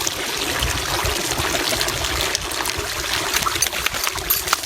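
Steady running water, trickling and splashing, with many small crackles.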